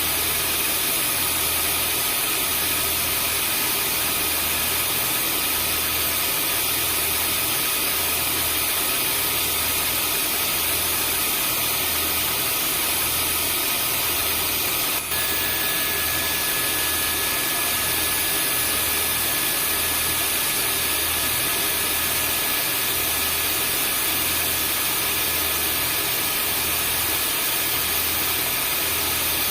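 Vacuum cleaner running steadily: a continuous rushing noise with thin high whines and a low pulsing hum. A brief dip about halfway through, after which a new thin whistle joins.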